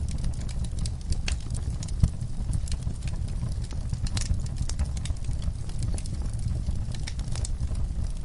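Wood fire in a fireplace crackling, with irregular sharp pops and snaps over a low steady rumble; one louder pop about two seconds in.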